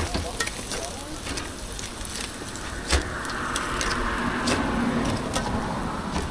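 A car driving past, its noise swelling from about three seconds in and easing off near the end, with scattered sharp clicks and a single knock just before it.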